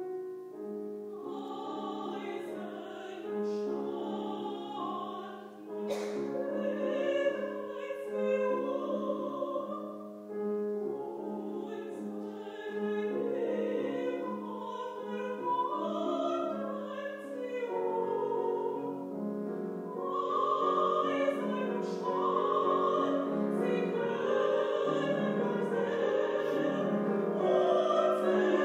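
Classical solo singing, a woman's voice with vibrato in operatic style, accompanied by piano, swelling louder near the end.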